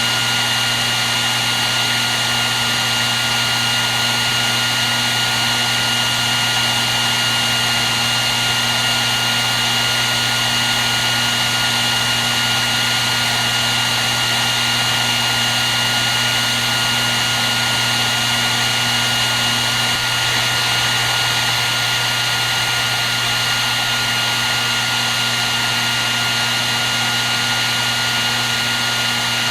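Hair dryer running steadily without a break: a constant rush of blowing air with a steady high whine and a low motor hum.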